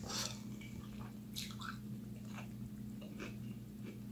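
A person biting into and chewing a piece of chicken coated in buffalo wing sauce: a few short wet mouth smacks and clicks, faint over a steady low electrical hum.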